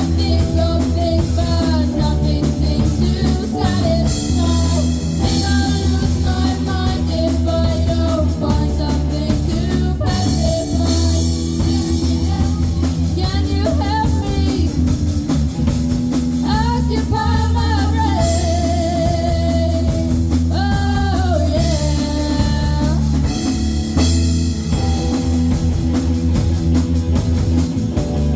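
A live rock band playing a song: a singer's voice over electric guitar, bass guitar, keyboard and a drum kit, at a steady loud level.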